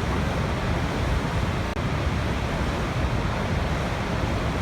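Waterfall: water falling and splashing in a steady, full rush, with a momentary break in the sound about two seconds in.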